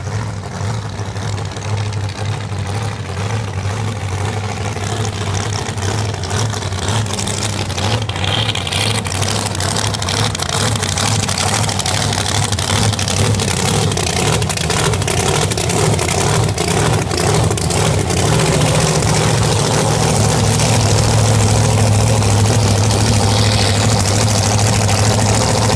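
Drag racing car's engine idling steadily, growing gradually louder as the car rolls up toward the starting line.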